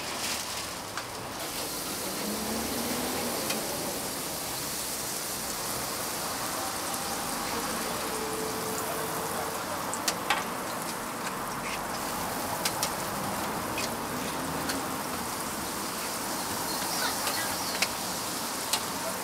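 Food sizzling steadily on a street-stall griddle, with a few sharp clicks scattered through.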